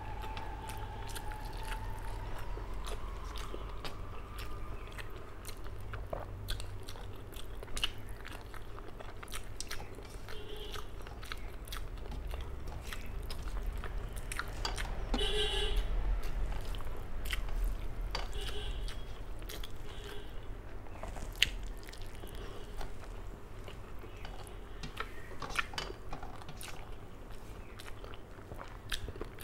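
Close-up chewing of a mouthful of rice and fish curry, wet and open-mouthed, with many short lip and tongue clicks.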